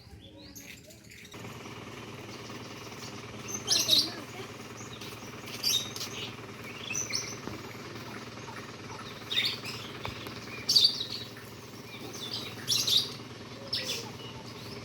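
Cinereous tit (gelatik batu) calling in short, high chirping phrases every second or two, over a steady low hum.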